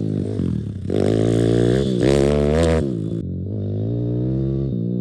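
YCF pit bike's small single-cylinder four-stroke engine revving up and down as it is ridden. The pitch climbs about a second in and again about two seconds in, then drops back to a lower, steadier drone in the second half.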